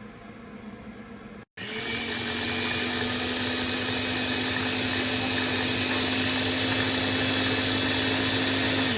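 Blender motor of an EVLA'S baby food steamer-blender running at a steady, high-pitched whine. It starts abruptly about a second and a half in, after a quieter steady hum, and stops near the end.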